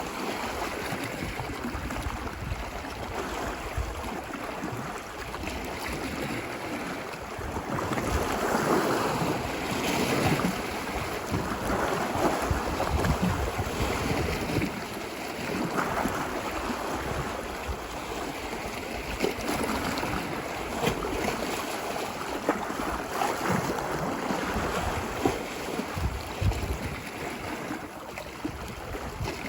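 Ocean waves washing ashore on a beach: a continuous rushing surf that swells and eases every few seconds, loudest in a long surge a third of the way in.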